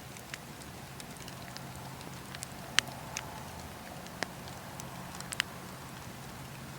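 Campfire crackling: irregular sharp pops and snaps of burning wood over a steady low hiss and hum, with the loudest pops a little under three seconds in and again after four and five seconds.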